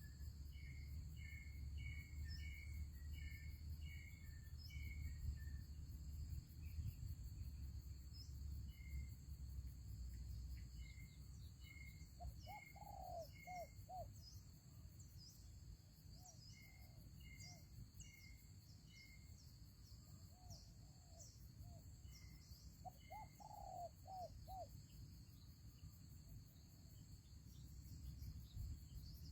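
Spotted doves cooing in short repeated phrases several times, faint. Between the coos a smaller bird gives quick runs of higher chirps, over a steady high whine and a low rumble.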